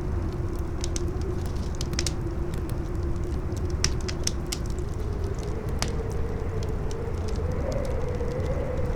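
Campfire crackling with scattered sharp pops over a steady low rumble of strong wind, with a howling wind tone that rises in pitch about halfway through.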